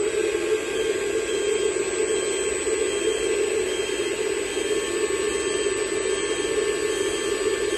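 A 1/14-scale RC hydraulic dump truck running: a steady electric-motor whine and hiss that holds even throughout.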